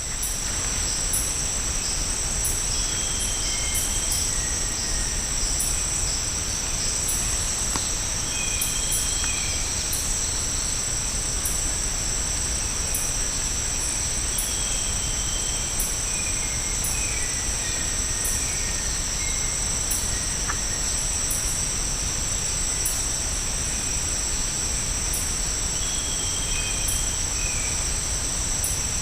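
Tropical rainforest insect chorus: a steady, high-pitched drone with a faster, regular chirping above it. Short whistled bird notes come through now and then, several times.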